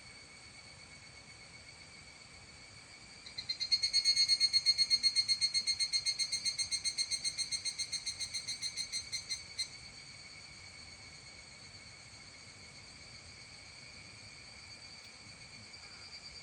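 A higurashi (evening cicada) calls in a rapid, high, ringing pulse train of about eight pulses a second. It starts a few seconds in, slowly fades, and cuts off after about six seconds. Behind it a steady high insect drone runs on.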